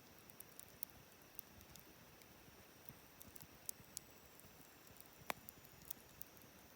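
Wood fire crackling faintly: scattered sharp pops and ticks over a low hiss, with one louder pop about five seconds in.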